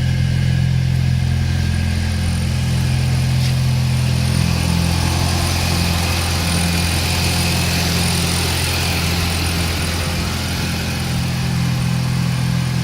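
Toyota Corolla EE90's 4E-FE four-cylinder engine running at a steady speed through an HKS muffler on 3-inch exhaust piping: a low, even drone with no rise or fall in pitch.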